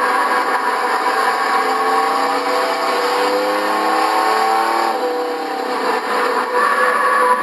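Several racing trucks' engines running at speed around the track, with one engine's pitch gliding as it passes about halfway through.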